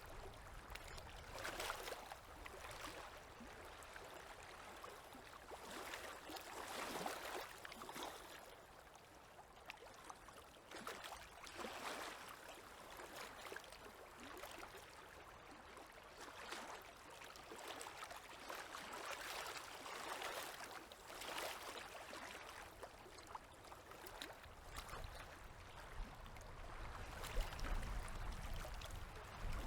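Small river waves lapping, soft irregular washes of water every second or two, with a low rumble growing near the end.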